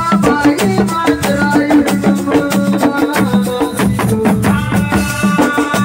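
Assiko band music: fast, dense drumming and percussion over a steady rhythm, with melodic instrument lines.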